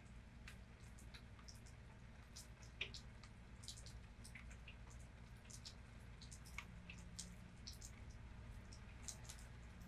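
Faint rain dripping: scattered drops ticking irregularly, several a second, over a steady low hum.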